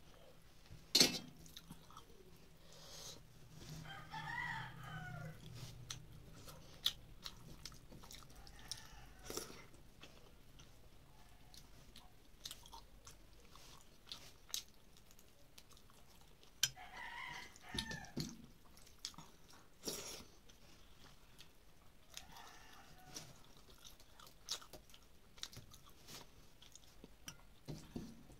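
Close-up chewing and the small clicks of fingers mixing rice and curry on a metal plate. A rooster crows in the background about four seconds in, again about seventeen seconds in, and once more a few seconds later.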